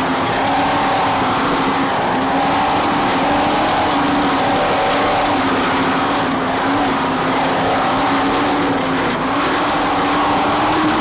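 Offshore racing powerboat engines running hard at speed: a steady, loud drone that wavers slightly in pitch, over a constant hiss.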